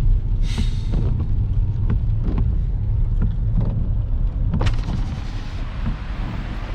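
Vehicle running over a rough road: a heavy steady rumble with scattered knocks and rattles, and a sharp jolt about two-thirds of the way through.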